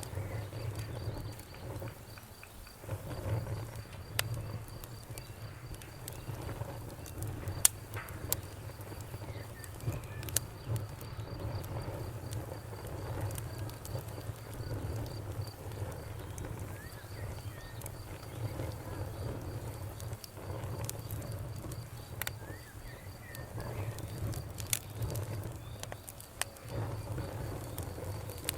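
Wood fire crackling: a steady low rumble of flames with irregular sharp pops and snaps, one of them louder about a quarter of the way in.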